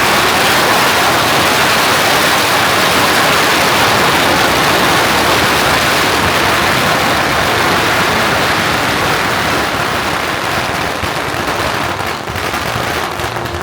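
Firecrackers going off in a dense, continuous crackle, thinning out near the end.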